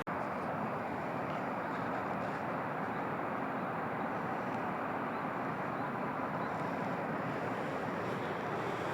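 Steady running noise of a train, an even rumble that holds level throughout.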